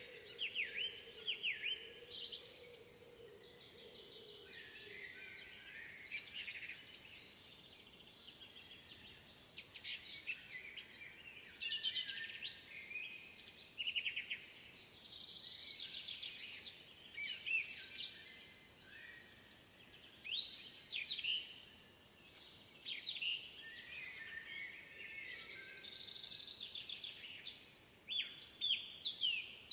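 Several songbirds singing in a spring woodland, overlapping songs of quick trills and chirps coming every second or two.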